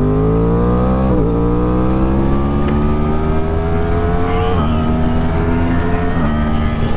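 Sport bike engine accelerating hard through the gears to pass, its pitch climbing in each gear and dropping at three quick upshifts, with wind noise underneath.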